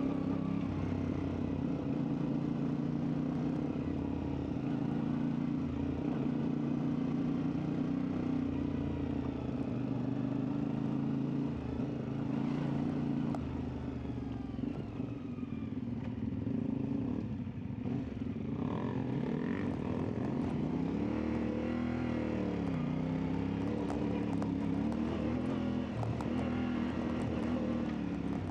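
CFMoto 450MT's parallel-twin engine running as the motorcycle is ridden. It is steady at first, then its pitch rises and falls a few times in the second half as the throttle is opened and closed.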